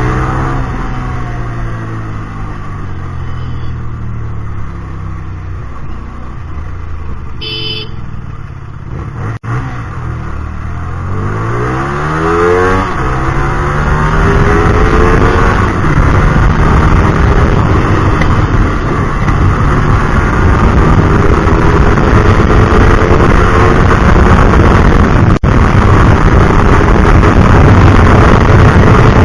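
Hyosung GT250R's V-twin engine with an aftermarket Solfer exhaust under way. The revs fall off over the first third, then climb again as the bike accelerates. It then runs louder and harder with rising wind rush. A brief high beep or horn sounds about a quarter of the way in.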